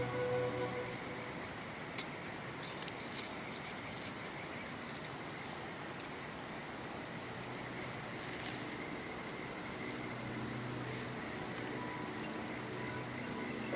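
Steady rush of river water with a constant high-pitched insect trill, broken by a few sharp crackles from a wood campfire around two to three seconds in and twice more later. Soft background music fades out at the start and faint low notes return near the end.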